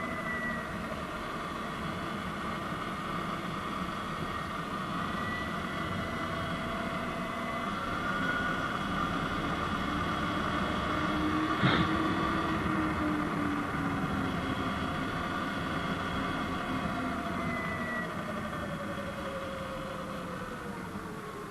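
Surron Light Bee X electric dirt bike's motor whining on the move, its pitch gliding slowly up and down with speed, over a steady rush of noise. A single sharp click about twelve seconds in.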